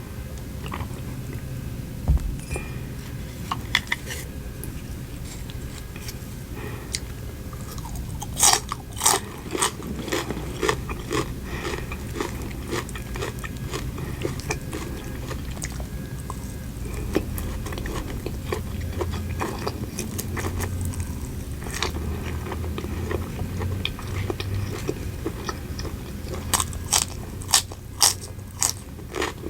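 Close-miked eating: chewing with runs of sharp, crisp crunching bites, clustered about eight seconds in and again near the end, over a steady low hum.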